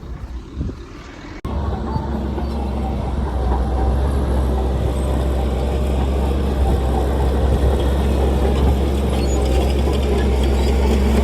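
Heavy diesel earthmoving engine running steadily under load: a deep, constant drone that starts abruptly about a second and a half in and grows slightly louder.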